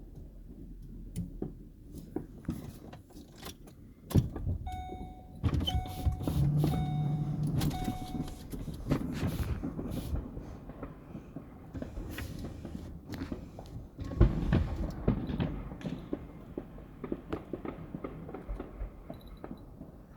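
Inside a car, a chime beeps four times while a power window motor hums briefly as a window is lowered. Scattered clicks and thumps run throughout, the loudest about four seconds in and again around fourteen seconds.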